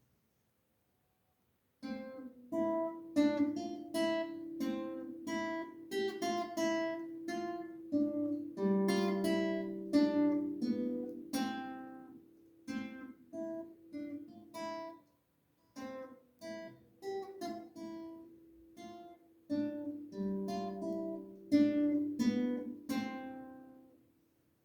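A beginner playing a short, simple piece on acoustic guitar: single plucked melody notes over held bass notes. It starts about two seconds in, pauses briefly twice in the second half and ends at a gentle fade.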